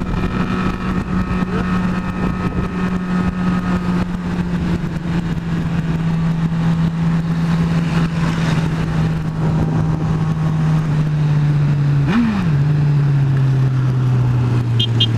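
Honda CB600F Hornet's inline-four engine heard from the rider's seat with wind noise, its note steady at highway speed and then slowly dropping as the bike slows. About twelve seconds in a quick rev blip marks a downshift, and the pitch drops again near the end. A few short high beeps at the very end.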